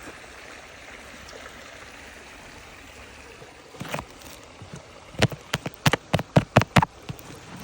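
Steady rushing of a stream, with a quick run of about eight sharp knocks over two seconds starting about five seconds in.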